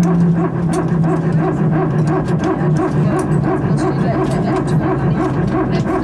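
Airbus A320 hydraulic power transfer unit (PTU) running with its well-known 'barking dog' sound: a steady hum that breaks about a second in into a rapid, pulsing buzz. The PTU is passing hydraulic pressure between the aircraft's hydraulic systems.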